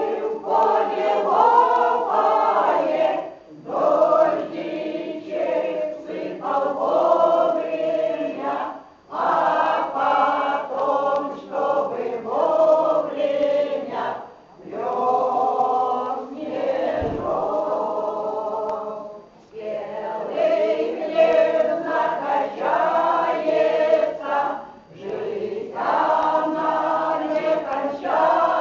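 A choir singing a song in phrases of about five seconds, with short pauses for breath between them. A brief low thud sounds about halfway through.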